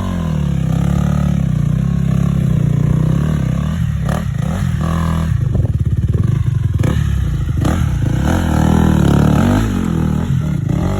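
Dirt bike engine revving up and down as the rider works along the trail, with clatter and a few sharp knocks.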